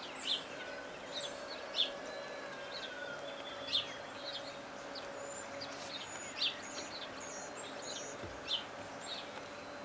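Outdoor ambience with small birds chirping in short high notes every second or so, over a steady low hum and background hiss.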